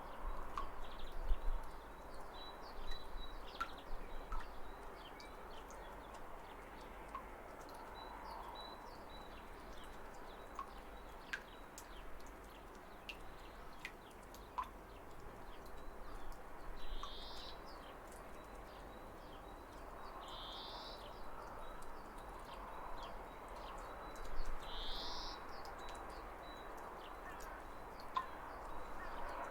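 Birds chirping with short, scattered calls over a steady rush of falling water. In the second half, one louder, slightly rising call repeats every three to four seconds.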